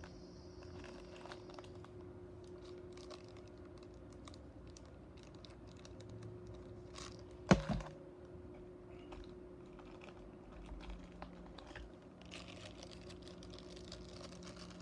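Small clicks and rustles of die-cast toy cars and their plastic packaging being handled, with one sharp knock about halfway through, over a steady low hum.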